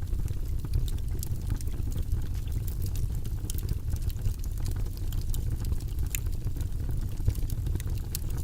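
Wood fire in a fireplace crackling: frequent sharp pops and snaps at irregular intervals over a steady low rumble of the flames.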